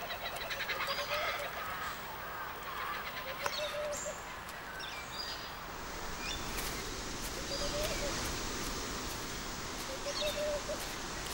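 Short bird calls, several of them a few seconds apart, over a steady hiss of outdoor ambience.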